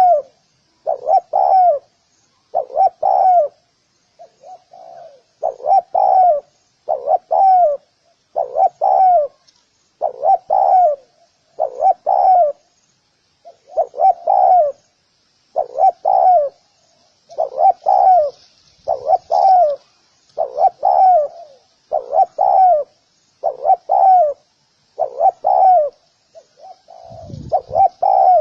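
Spotted dove cooing over and over, its low coos coming in close pairs about every one and a half to two seconds. Faint high chirping of small birds runs behind it, and there is a brief low rumble near the end.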